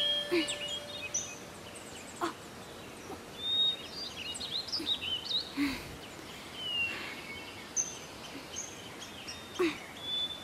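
Birds chirping and whistling in many short, scattered calls from several birds, with a few brief clicks among them.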